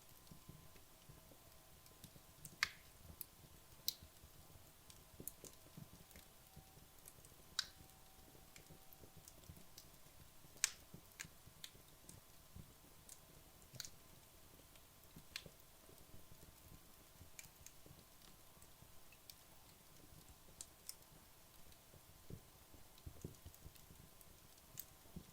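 Wood logs burning in a fireplace, crackling with sharp, irregularly spaced pops and snaps over a faint low hum of the fire.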